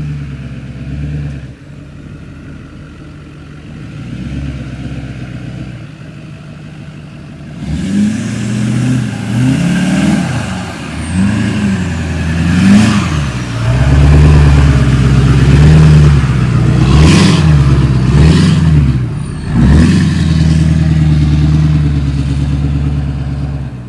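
A Duramax 6.6-litre V8 turbo-diesel pickup engine running low and steady, then from about 8 seconds in revving up and down again and again, louder, as the truck is driven off-road in two-wheel drive.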